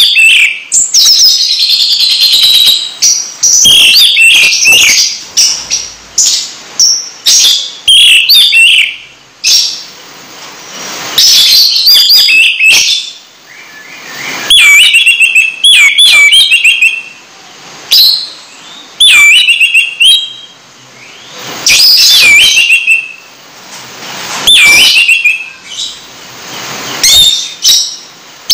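A caged bird singing loudly in phrases of sharp, high chirps and quick falling sweeps. Each phrase lasts about a second and repeats every two seconds or so, with short pauses between.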